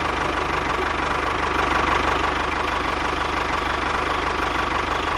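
Small engine of a DIY mini construction machine running steadily at idle, with a rapid, even chugging.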